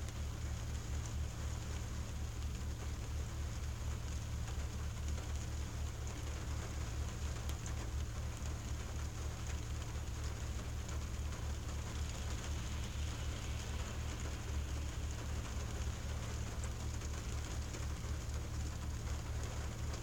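Rain pattering steadily on a car windshield, heard from inside the car, with a few faint separate drop ticks. A constant low rumble runs underneath.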